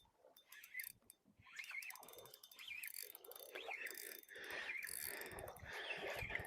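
Fishing reel being wound in, its gears and ratchet clicking rapidly with a wavering whirr, louder in the second half.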